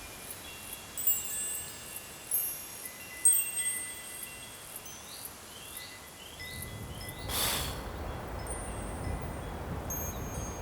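Wind chimes tinkling: scattered high, thin ringing tones. Around the middle come three short rising chirps. About seven seconds in there is a whoosh, followed by a steady hiss.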